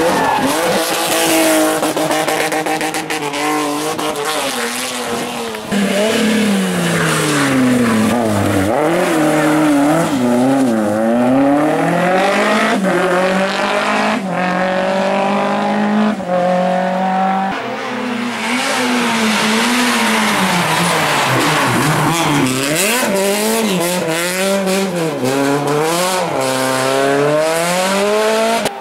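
Rally cars driven hard on a stage, one after another, engines revving up and dropping back over and over through gear changes and braking.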